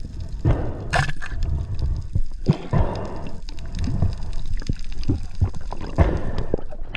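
Water sloshing and gurgling in uneven surges.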